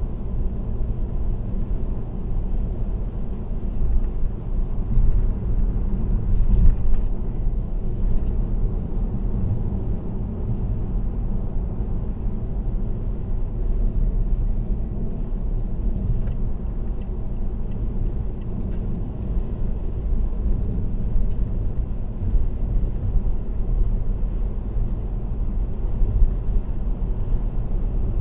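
Steady low road rumble of a car cruising on an expressway, picked up by a dashcam, with a brief louder swell about six and a half seconds in.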